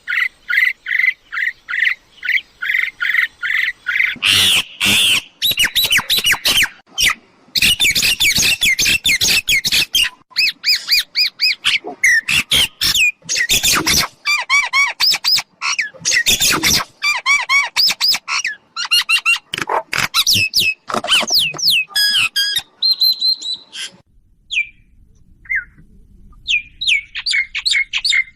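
Mynas calling loudly and rapidly, a dense mix of harsh squawks, chatters and whistled notes, as birds answer a decoy. The calls break off for a few seconds near the end, then start again.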